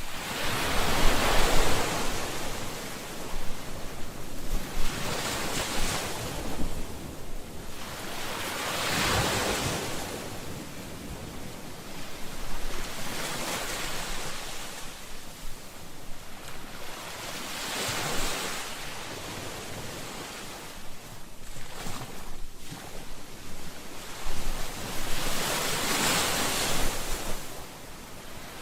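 Ocean waves breaking on a shore, each wave swelling into a hiss of surf and fading back, every four to eight seconds, with wind buffeting the microphone.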